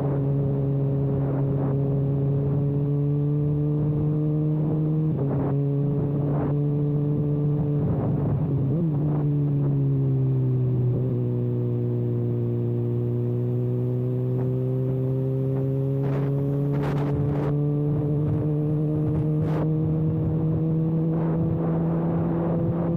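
Kawasaki ZX-6R's inline-four engine running with its exhaust silencer canister removed, a steady note that dips about halfway through and then climbs slowly. A few short clicks sound over it in the second half.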